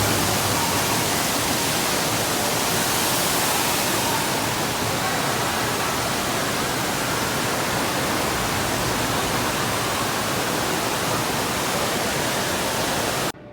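Steady rushing noise like falling water, even and unbroken, cutting off abruptly near the end.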